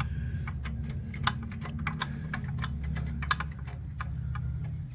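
Irregular light metallic clicks and clinks of hand tools and a bolt on an extension with an Allen-head bit as the bolt is started into its hole, over a steady low hum.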